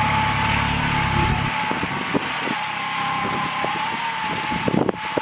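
Kubota A211N compact tractor's diesel engine running, its low rumble dropping away about a second and a half in while a steady high whine carries on. Scattered knocks and clatters follow, the loudest just before the end.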